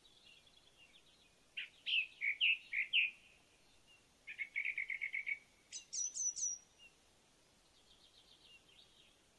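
Birdsong in separate phrases: a run of five loud notes, then a fast even trill, then a few high notes, with faint chattering before and after.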